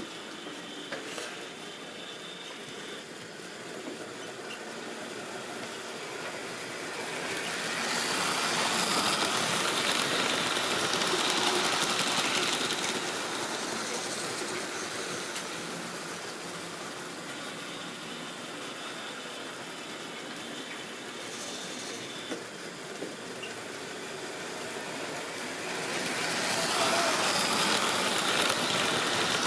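Model railway train running around the track, its small electric motor and wheels on the rails growing louder twice as it passes close by.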